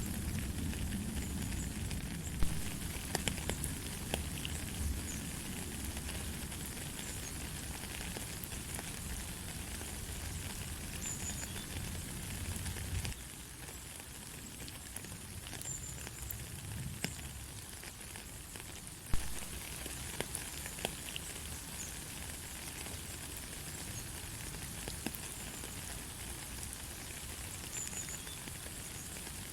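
Steady light rain pattering on surfaces, with many small drop ticks and a couple of louder drip knocks about two and a half seconds and nineteen seconds in. A low rumble under the rain drops away about halfway through.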